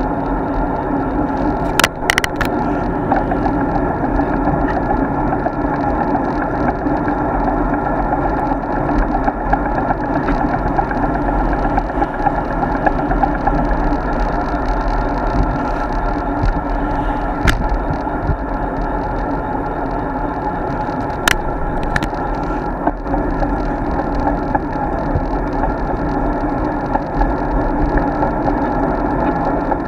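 Steady rush of wind and road noise on an action camera riding along on a road bike, with a few sharp clicks or knocks now and then.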